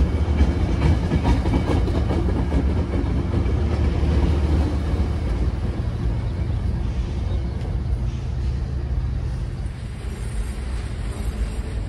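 Metrolink commuter train moving past, its diesel locomotive engine giving a steady low drone with rail noise. The drone is strongest in the first half and gradually weakens.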